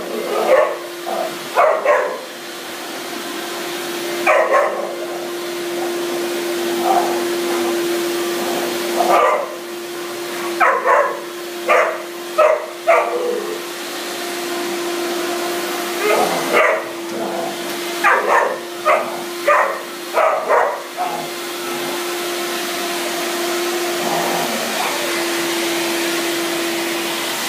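A Dalmatian-whippet cross dog barks in short bursts and clusters at a running Hoover vacuum cleaner, whose motor hums steadily. The barking stops about three-quarters of the way through, leaving the vacuum running alone.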